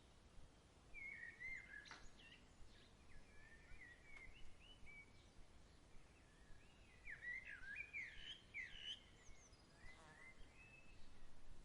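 Faint songbird chirping: quick gliding notes in two short bouts, the second, about seven seconds in, the busiest, over a faint low background rumble.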